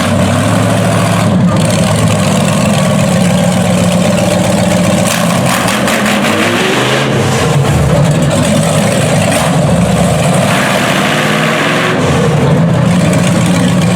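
A vehicle engine running loudly and idling, revving up with a rising pitch about halfway through.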